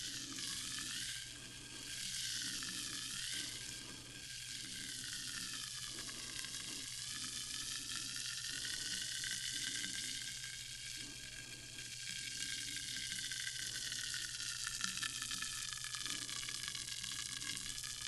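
Sparkling water fizzing steadily: a dense, high hiss of carbonation bubbles popping.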